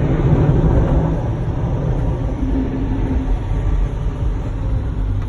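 Steady low rumble heard from inside a car in an automatic car wash, easing a little after about a second.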